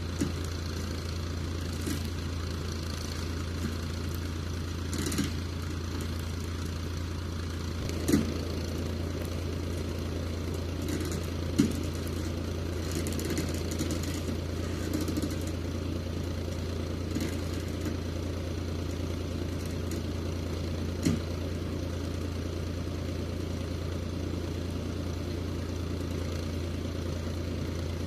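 Steyr 540 tractor engine running at a steady speed, with a few sharp knocks or clanks, the loudest about 8, 11 and 21 seconds in.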